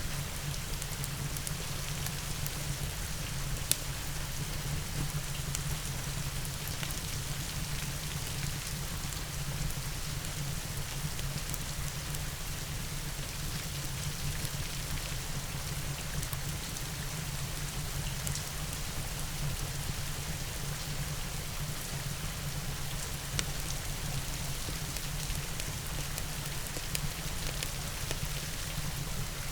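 Steady rain with a low rumble underneath, mixed with a fireplace's scattered sharp crackles, one louder snap about four seconds in.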